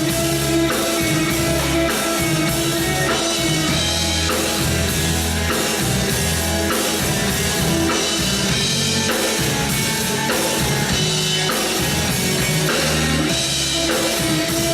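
A live rock band plays an instrumental passage with a full drum kit and electric guitars, held notes ringing over a steady beat.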